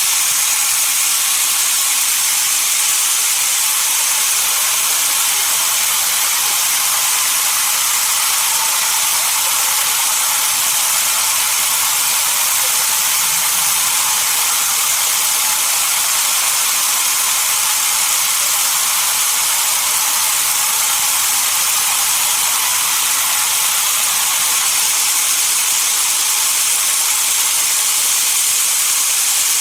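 Sawmill saw cutting through a dense desert redwood log: a steady high-pitched hiss with no breaks.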